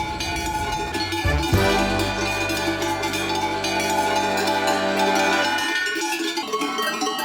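Many large cowbells clanging unevenly as a herd of cattle comes down the mountain road. A held low musical note sounds underneath from about a second and a half in and stops suddenly shortly before the end.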